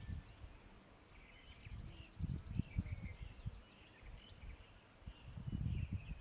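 Small birds chirping and twittering in the background, with a fast high trill about a second and a half in. Irregular low rumbling bursts come and go under the birdsong, loudest about two seconds in and near the end.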